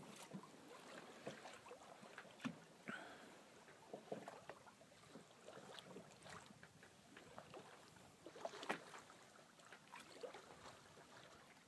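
Quiet sailboat under way: faint, irregular small knocks and splashes of the hull and gear, with a short squeak about three seconds in.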